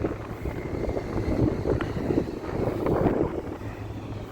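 Strong wind buffeting the microphone of a moving cyclist's camera, a rough rumble that rises and falls in gusts.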